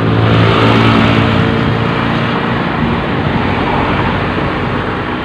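A motor vehicle passing close by on a highway: its engine is loudest in the first couple of seconds and fades away about three seconds in, over a constant wash of traffic noise.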